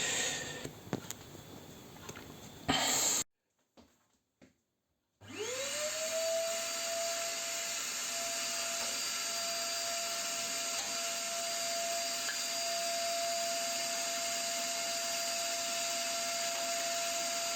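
Vacuum cleaner motor starting about five seconds in, after two seconds of dead silence: its whine rises quickly to speed and then runs steadily at one pitch.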